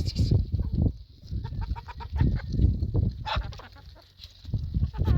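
Chickens clucking in short repeated calls, with one louder call a little after the middle, over a low rumbling noise.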